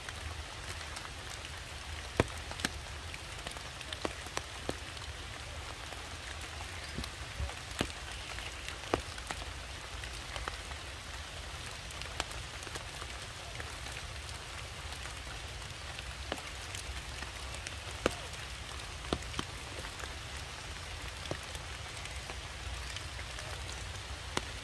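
Raindrops falling steadily on leaf litter and rock, a constant patter with scattered louder single drops.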